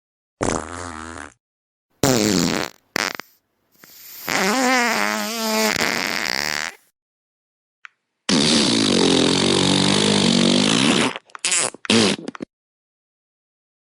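A series of separate fart sound effects with silent gaps between them: a few short ones first, a long one with wobbling pitch, another long one, then a few quick short ones near the end.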